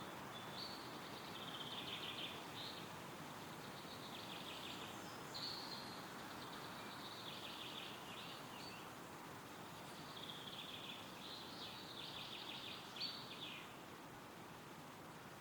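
Wind rustling through forest trees, with a songbird singing several trilled song phrases over it.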